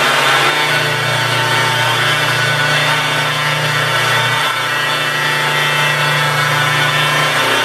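Electric car polishing buffer running steadily with a low motor hum, its soft black foam pad working swirl-mark remover compound over the paint; the hum dips briefly about four and a half seconds in.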